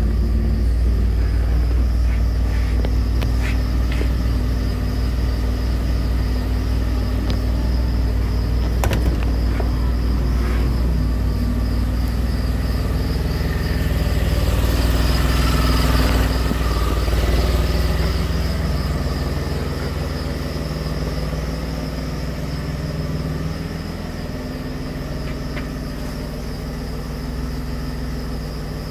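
DeLorean DMC-12's PRV V6 engine idling steadily after a cold start, with a thin, steady high whine over it. The sound swells a little around the middle and eases slightly toward the end.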